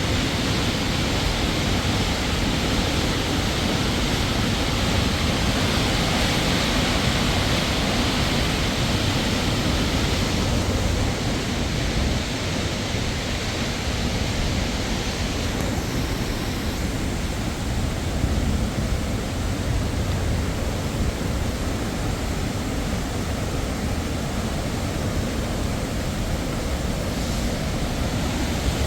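Waterfall: a steady, loud rush of falling water, dipping slightly about ten seconds in.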